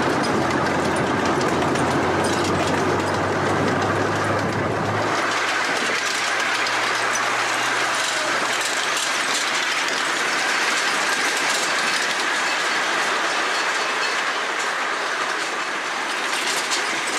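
Small zoo train running along its track, heard from an open passenger car: steady rolling and rattling of the cars. A low hum runs under it for about the first five seconds, then drops away.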